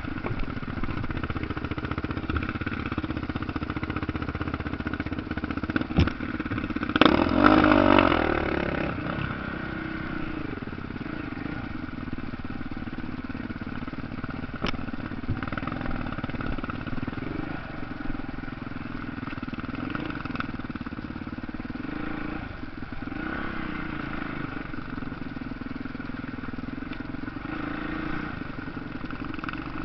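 Motocross motorcycle engines running and revving, with a louder surge about seven seconds in.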